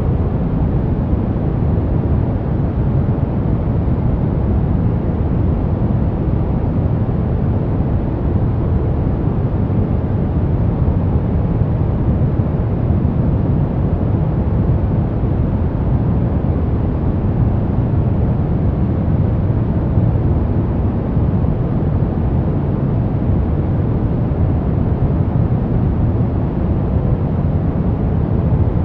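Baby-sleep white noise: a steady, unchanging rushing hiss, deep and heaviest in the low end.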